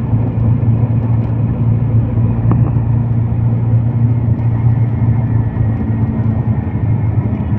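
Steady low rumble of a road vehicle travelling along a highway, with a brief faint tick about two and a half seconds in.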